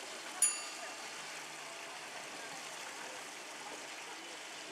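Steady rushing, water-like background noise, with one sharp metallic ping that rings briefly about half a second in.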